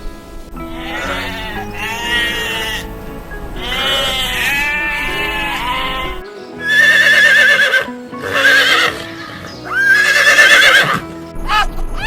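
Background music with a series of farm animal calls laid over it: about five long, wavering calls, the last three loudest.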